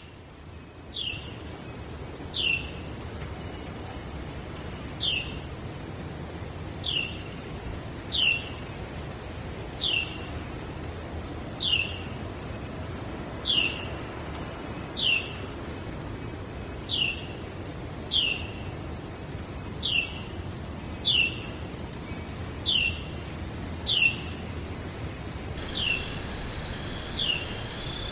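A bird calling over and over, each call a single short note falling in pitch, about every one and a half to two seconds, over a steady low background rush. Near the end a steady high-pitched buzz joins in.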